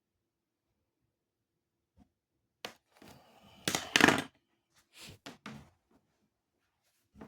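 A cluster of knocks and thuds with rustling between them, loudest about four seconds in. A few lighter knocks follow, and one more comes near the end.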